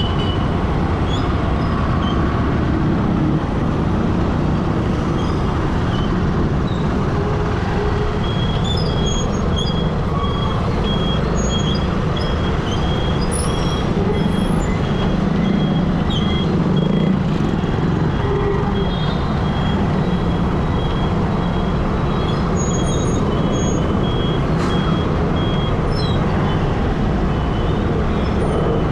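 Road traffic and engine rumble heard from a moving motorbike in city traffic. A high beep repeats at an even pace from about a third of the way in until near the end.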